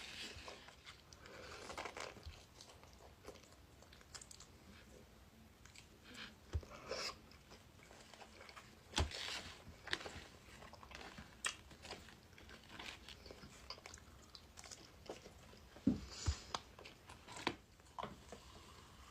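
Close-miked eating of pizza: biting and chewing, with irregular sharp crunches scattered through.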